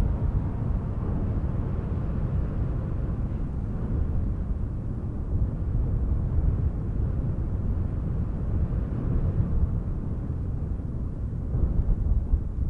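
Breeze blowing, mostly a low rumble that swells and eases in gentle gusts, a little stronger near the end.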